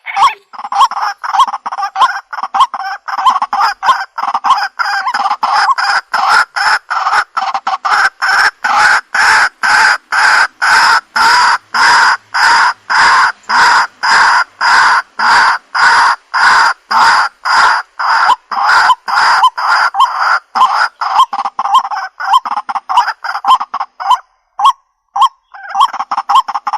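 Waterhen (jal murgi) calling: a loud, rhythmic series of harsh croaking notes, about two a second, repeated over and over, with a short pause near the end before the calling starts again.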